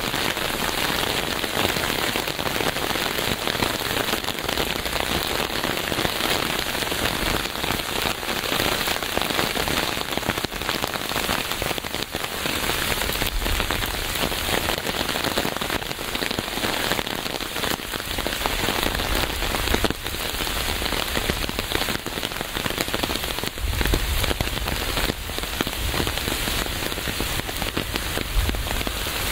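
Steady rain falling, a dense patter of drops hitting a surface, with faint low rumbles now and then.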